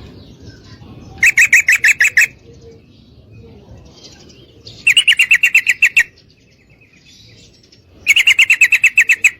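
Yellow-vented bulbul (trucukan) giving a rapid chattering call, three loud bursts of about eight quick notes a second, each lasting about a second with pauses of two to three seconds between. It is offered as a female calling to a male.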